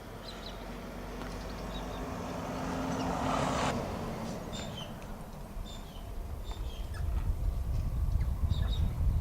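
A passing vehicle swells to a peak about three and a half seconds in and then cuts off abruptly, while small birds give short high chirps throughout. Near the end, a low, fluttering rumble of wind on the microphone takes over.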